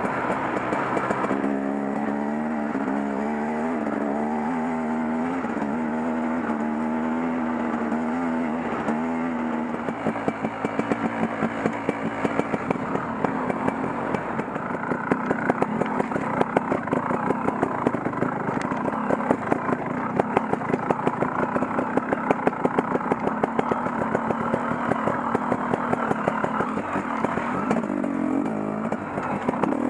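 KTM Freeride 250 dirt bike engine running while being ridden, holding a fairly steady, slightly wavering note for about ten seconds. After that it turns choppy, with rapid surges and clattering as throttle and load change over rough ground.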